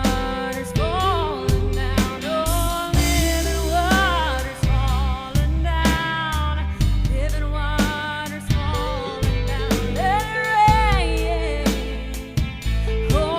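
Gospel song: a woman sings a melismatic, gliding vocal line over a band with drums and bass.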